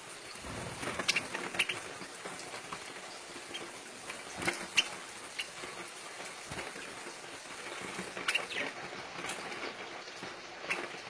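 Pet parakeets making short, scattered chirps over a steady rustling hiss, with a few sharp clicks.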